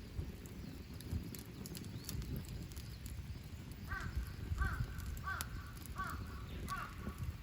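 A crow cawing five times in a row, starting about four seconds in, over the crackle of a campfire.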